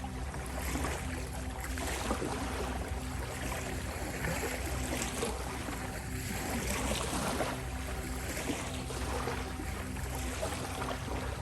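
Ocean waves washing in and out, swelling and receding every few seconds, over a steady sustained drone of held tones from a 528 Hz healing-frequency track.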